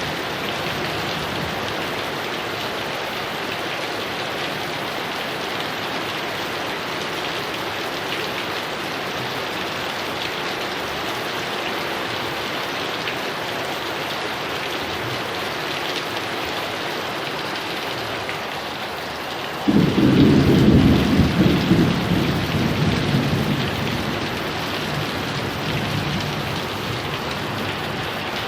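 Steady heavy rain, then a sudden loud crack of thunder about two-thirds of the way through that rumbles and dies away over a few seconds while the rain carries on.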